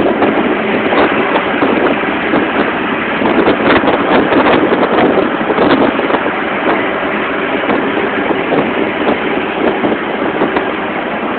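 Loud wind rushing and buffeting over a phone's microphone in the open bed of a moving truck, with the vehicle's running and road noise underneath.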